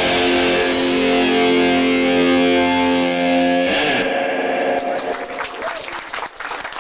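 Electric guitar with distortion holding a final chord as a song ends live, cut off a little under four seconds in; scattered clapping starts near the end.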